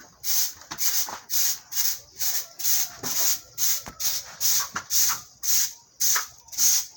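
Stiff brush sweeping in quick, even strokes: a scraping hiss a little more than twice a second.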